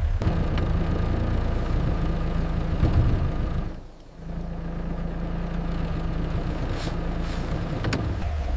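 Suzuki Jimny's engine running as it drives, a steady low hum that drops away briefly about four seconds in and then picks up again.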